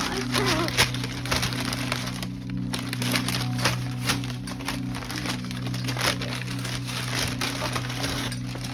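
Blue-and-gold macaw tearing and crumpling packing paper: dense, irregular crackles and rips, over a steady low hum.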